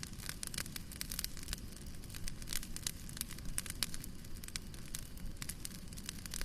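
Wood fire burning in a fireplace, with irregular sharp crackles and pops over a low steady rumble of the flames.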